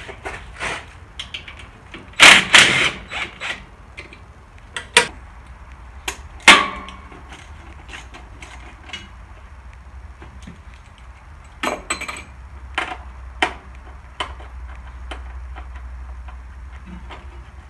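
Hand tools and metal parts clanking and knocking at irregular times, with a loud cluster of knocks about two seconds in and a sharp metallic clang that rings briefly about six and a half seconds in.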